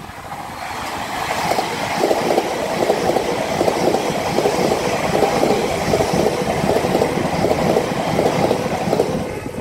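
Electric passenger train passing close by at speed, its wheels rumbling on the rails. The sound builds over the first couple of seconds, holds loud, then begins to fade at the end.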